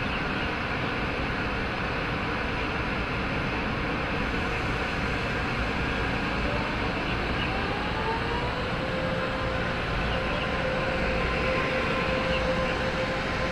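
TRA EMU500 electric multiple unit pulling away: a steady rumble of the train, with a motor whine that rises in pitch about seven seconds in and then holds steady.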